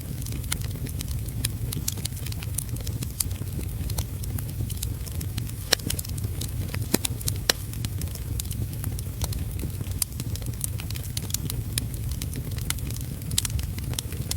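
Wood fire in a fireplace crackling, with irregular sharp pops, over a steady low rumble and the even hiss of heavy rain.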